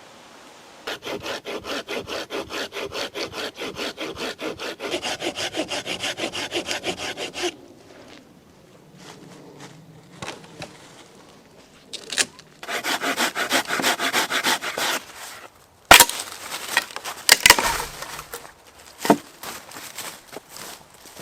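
Folding hand saw cutting dead wood for a campfire in fast, even back-and-forth strokes: a long run of about six seconds, a pause, then a shorter run. A few sharp cracks and knocks follow near the end, as the cut wood is snapped or handled.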